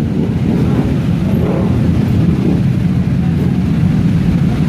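Loud, steady low rumble of motorcycle engines running.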